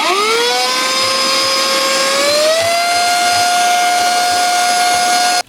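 Small electric motor tool, used to clear old tape and foam debris, whining as it spins up. Its pitch rises once more about two seconds in, then holds steady before it cuts off suddenly.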